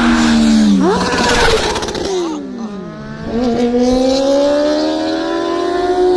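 Motorcycle engine revving. The pitch sweeps up sharply about a second in, dips, then climbs steadily as the bike accelerates.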